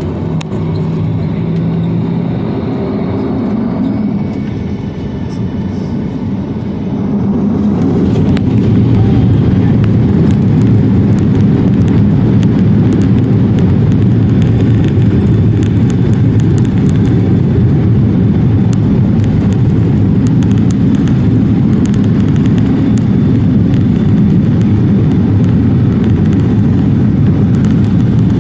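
Airliner jet engines spooling up with a rising whine. About seven seconds in, the sound jumps to a steady, loud rumble of takeoff thrust.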